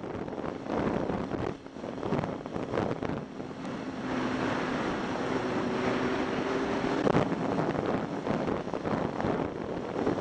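Wind buffeting the microphone of a riding motorcycle's onboard camera, with the motorcycle engine running underneath. In the middle the engine holds a steady tone for a few seconds, and a sharp knock comes about seven seconds in.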